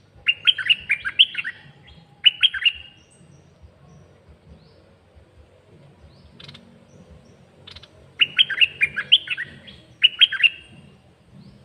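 Caged red-whiskered bulbul singing short, quick phrases of bright whistled notes. It sings two phrases in the first three seconds, pauses, then sings two more about eight seconds in.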